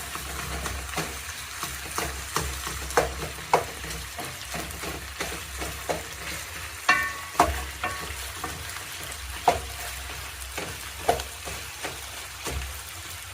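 Broiler chicken pieces sizzling as they fry in a pot with onion, garlic and ginger, while a spoon stirs them, clicking and knocking against the pot many times, one knock ringing briefly.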